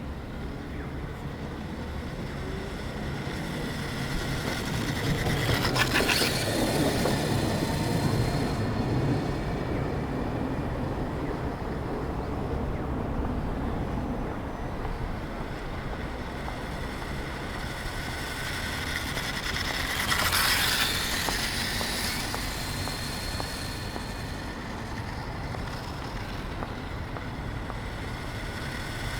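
DuraTrax DXR500 1/5-scale electric RC motorcycle running, its brushless motor and rear chain drive whining steadily. The sound swells twice as the bike comes close, about six seconds in and again around twenty seconds in.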